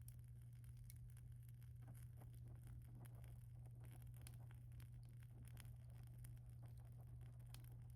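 Faint wood fire crackling, with scattered small pops and snaps over a steady low hum.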